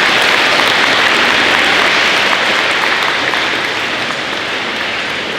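Audience applauding, the clapping loud at first and slowly dying down.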